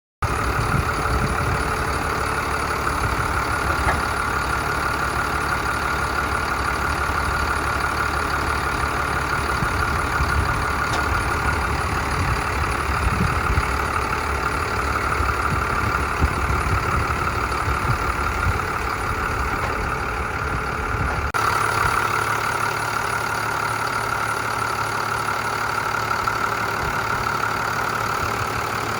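Cummins ISB diesel engine of a 1999 Capacity TJ5000 yard spotter idling steadily. It starts abruptly just as the sound begins, and about 21 seconds in it suddenly loses much of its low rumble.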